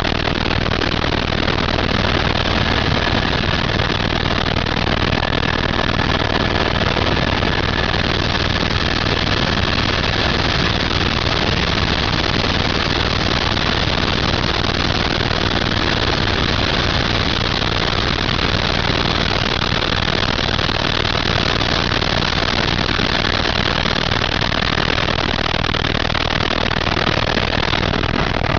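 Helicopter engine and rotor noise, a loud, steady drone with a faint steady whine above it.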